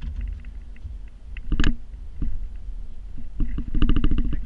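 Low, steady machine rumble from snow-removal work, with a short rattling burst about a second and a half in and a longer stretch of rapid rattling near the end.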